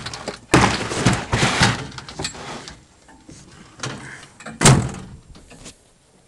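A series of loud bangs and knocks, with a single sharp bang about four and a half seconds in as the loudest.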